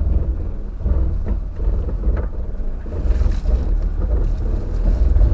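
4x4 vehicle driving slowly over a rough track: a loud, uneven low rumble with scattered knocks and rattles from the bumps.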